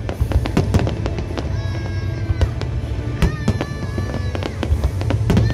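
Aerial fireworks shells bursting in quick succession, many sharp bangs a second over a continuous rumble.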